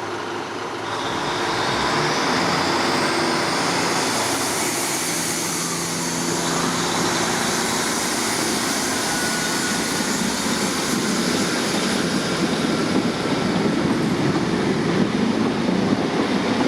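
A train pulling out of a station platform. Its running noise builds up about a second or two in and then carries on steadily.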